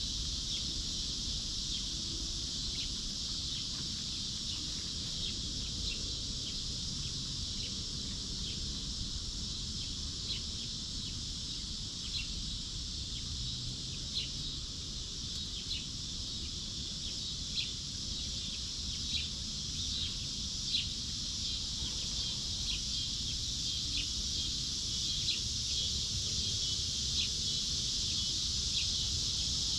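Steady high-pitched chorus of insects in an orchard, with short high chirps repeating about every one to two seconds over it.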